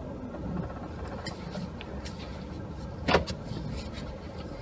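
2016 GMC Sierra plow truck running with a steady low rumble, with a single sharp knock about three seconds in.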